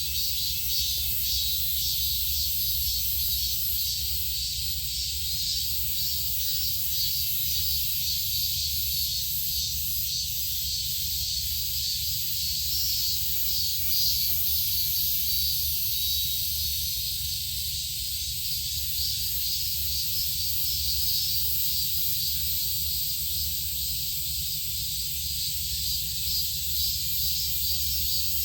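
Steady high-pitched insect buzzing with a fast flutter running through it, over a low rumble.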